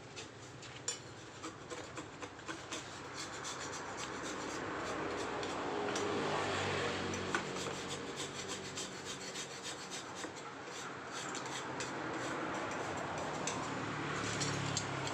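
Hand carving tools scraping and rasping at soft paras jogja stone: a continuous gritty scraping with many small clicks of the blade on the stone.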